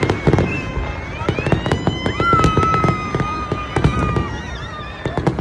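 Aerial fireworks bursting in quick, irregular succession with sharp bangs and crackling, and a high whistling tone that rises and holds for about three seconds in the middle.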